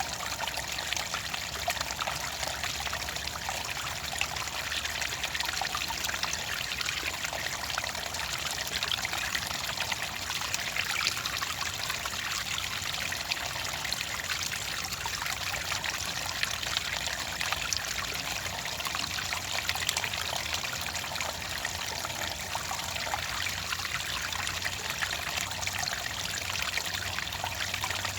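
Clear water trickling and pouring steadily, with fine irregular splashing.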